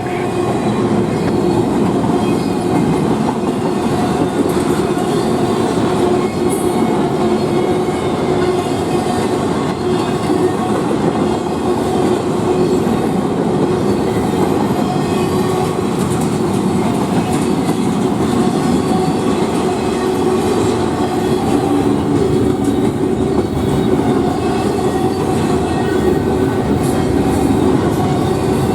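A long freight train's cars rolling past at steady speed: a continuous rumble of steel wheels on rail with faint steady ringing tones over it.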